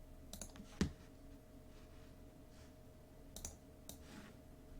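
A few scattered, faint computer-mouse clicks, the loudest about a second in, over a faint steady hum.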